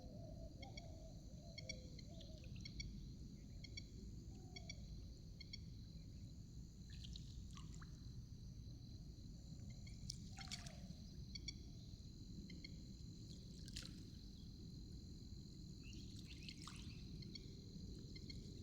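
Water trickling and splashing, with several sudden splashes and a short high chirp repeating about every two-thirds of a second.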